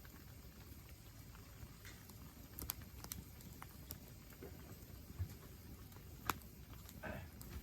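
Wood campfire crackling: scattered small pops and snaps from the burning wood over a low steady rumble, with one sharper pop about six seconds in.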